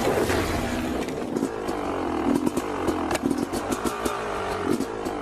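A motorcycle engine running with its revs rising and falling unevenly, with scattered sharp clicks and knocks throughout.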